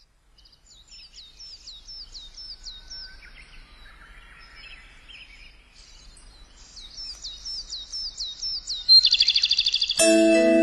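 Birds singing: a run of clear, downward-slurred whistles repeated about three a second, with softer lower warbling between, then a loud rapid trill about nine seconds in. Near the end, music comes in with bright mallet-percussion chimes over held low notes.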